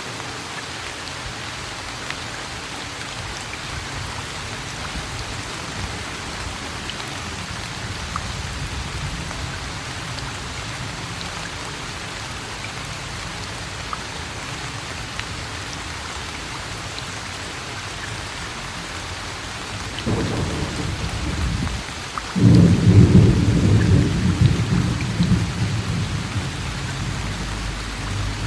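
Steady rain falling, an even hiss throughout. About two-thirds of the way in, a loud low rumble of thunder starts, breaks off briefly, then comes back louder and slowly fades over several seconds.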